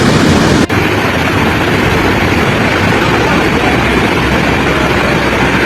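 Loud, steady roar of rushing floodwater, broken by a brief cut about two-thirds of a second in.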